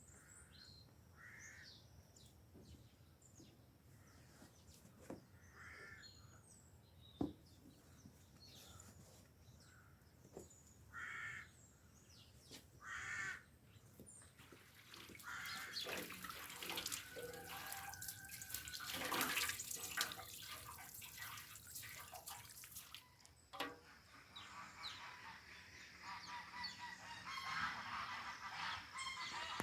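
Birds and farmyard fowl calling in short, separate calls every second or two. A louder, busier stretch of noise with some held tones comes in the middle, and the calls return near the end.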